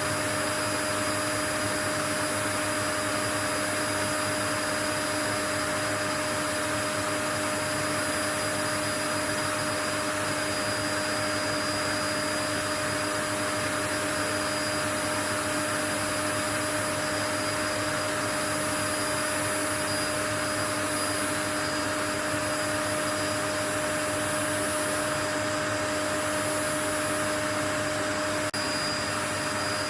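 White-noise track: an even, unchanging hiss with a few faint steady hum tones in it, like a vacuum cleaner or similar appliance running.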